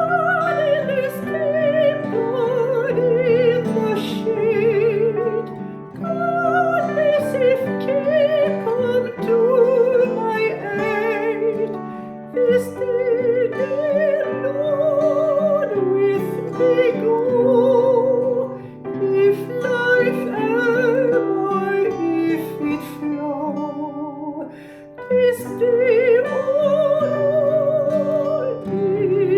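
A solo singer with a trained, classical-style voice and wide vibrato sings a slow melody over instrumental accompaniment. The melody comes in phrases with brief pauses between them.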